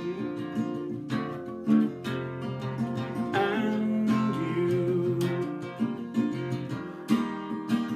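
Acoustic guitar strummed, playing chords of a slow song.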